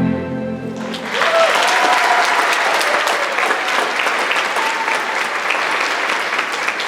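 Audience applauding, with a few voices calling out, after the closing music of the dance stops about a second in.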